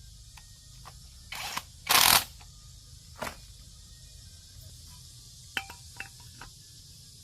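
Hand tools working on metal machine parts during assembly: two loud short rasping strokes and a weaker third, then a few light metallic clinks with a brief ring.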